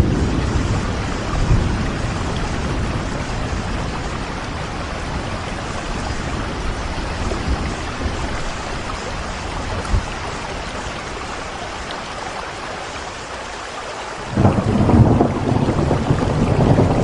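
Steady rain with rolling thunder: a low rumble at the start fades into the rain's even hiss. Then, a little after fourteen seconds in, a loud low rumble of thunder breaks in suddenly and keeps rolling.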